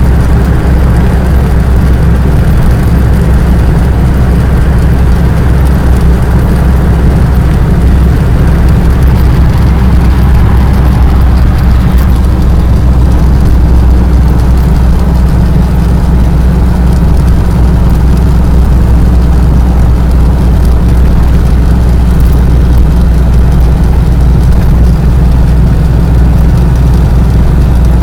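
A vehicle running steadily: a loud, even low rumble of engine and road noise with no breaks.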